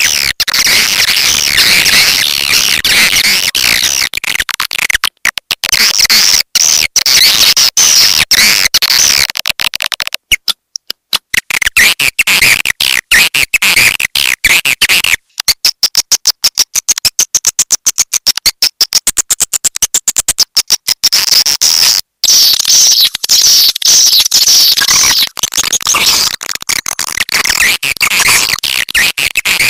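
Edible-nest swiftlet lure call: a loud, dense, high-pitched twittering chatter of many swiftlets. Through the middle stretch it breaks into rapid, evenly spaced chirps. It is the kind of call played from swiftlet houses to draw the birds in to roost and nest.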